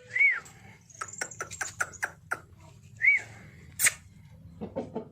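Aseel chickens giving short calls that rise and fall in pitch, two in all, about three seconds apart. Between the calls comes a quick run of sharp clicks, and a single louder click follows near the end.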